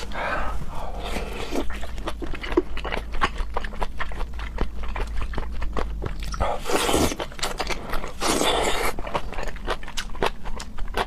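Close-up mukbang chewing of raw seafood: a quick run of wet mouth clicks and smacks. Two longer hissing sounds come about 7 and 8.5 seconds in.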